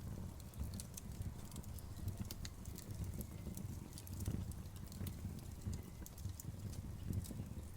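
Campfire burning: a low, fluttering rumble of flames with irregular sharp crackles and pops scattered throughout.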